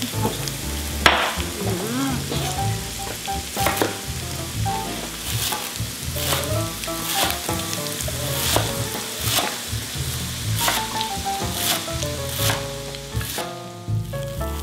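Chopped onion frying in oil in a pan with a continuous sizzle, together with a chef's knife chopping fresh herbs on a wooden cutting board in sharp, irregular strokes, roughly one a second.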